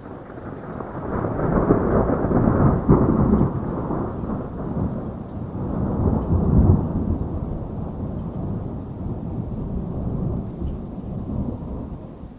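A long rolling rumble of thunder over steady rain; it builds over the first two seconds, swells again about six seconds in, then slowly dies away near the end.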